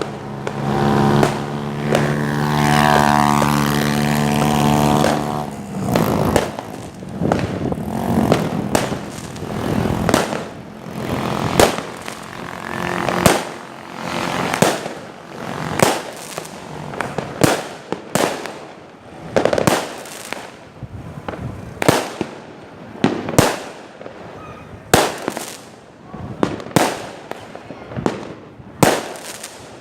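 Fireworks going off in irregular succession: sharp bangs, many each followed by a short trailing rumble, a couple every few seconds. In the first few seconds a steady droning tone with several pitches sounds over them, then stops.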